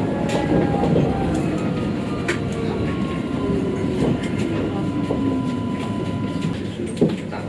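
Light rail tram running, heard from inside the car: a steady rumble with an electric motor whine sliding down in pitch, scattered clicks and rattles, and a sharp knock near the end.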